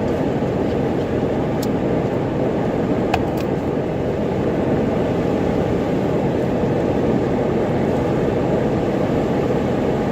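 Steady engine and tyre noise inside a car driving on a snow-covered road, with a few faint ticks between about one and a half and three and a half seconds in.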